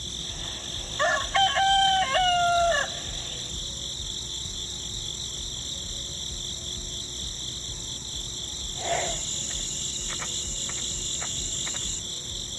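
A rooster crows once, about a second in, over a steady high-pitched drone of insects. A few faint ticks follow later.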